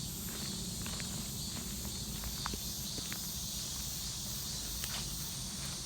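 Footsteps through forest undergrowth, with scattered small clicks and snaps, over a steady high-pitched chirring of insects.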